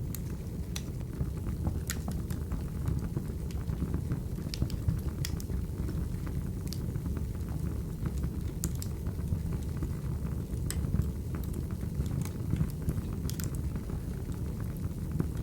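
Wood fire crackling: a steady low rumble of flames with irregular sharp pops and snaps scattered throughout.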